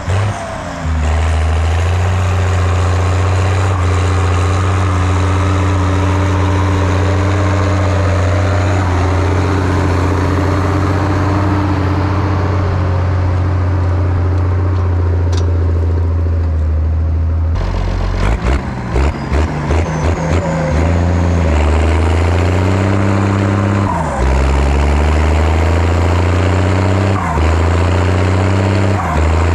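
Zetor ZTS 16145 tractor's turbocharged six-cylinder diesel engine running steadily under load for about the first two-thirds. It then breaks off abruptly into an uneven, pulsing note, and afterwards the engine speed climbs, drops sharply and climbs again a couple of times.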